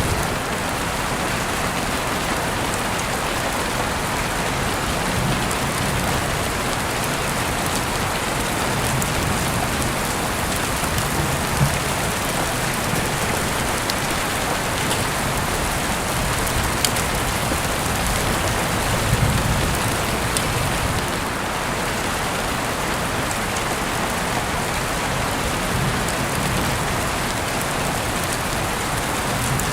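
Steady rain falling, an even hiss with a few sharp ticks now and then.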